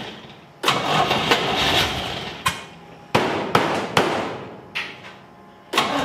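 Chevy Monza race car's engine being started, catching in three short bursts that each start suddenly and fade out over about two seconds: the engine won't keep running.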